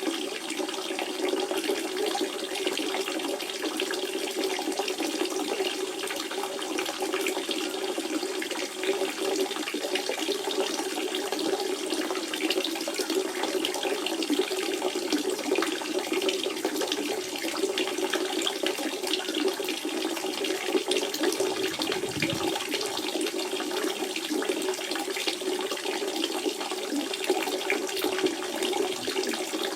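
Natural spring water running steadily, an even flowing sound with a strong low gurgle.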